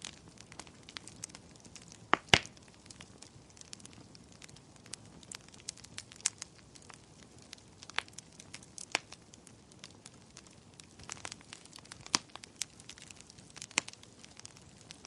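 Wood fire burning in a fireplace: irregular crackles and sharp pops over a faint hiss, with the loudest pops a little over two seconds in.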